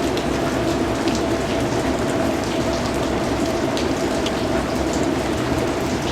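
Steady rain falling: an even hiss with scattered single drops ticking sharply on top.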